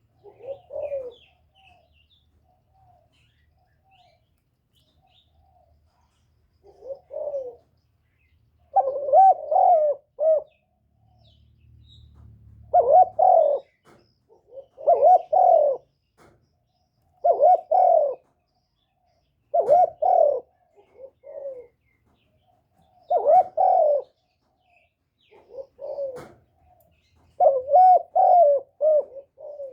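Spotted dove cooing: a run of about ten short cooing phrases, each around a second long, coming every two seconds or so.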